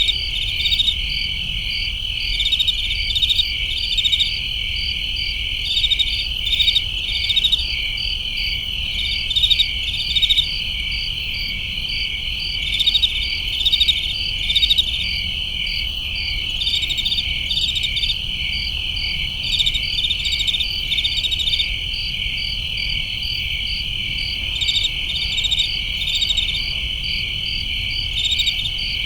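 Crickets chirping in chorus: a steady high trill with quick, rhythmic chirps pulsing over it and louder runs of chirps every few seconds, over a faint low rumble.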